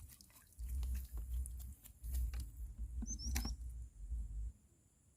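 Wind buffeting the microphone in gusts, with scattered light clicks and patter, and a brief high chirp about three seconds in.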